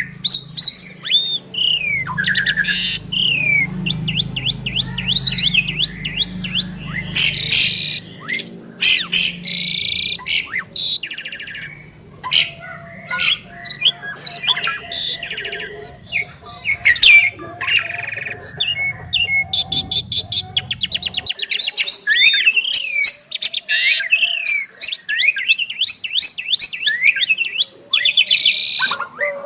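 Javan pied starlings (jalak suren) singing a long, varied song of whistled glides, fast rattling runs of repeated notes and sharp chattering calls, with hardly a pause.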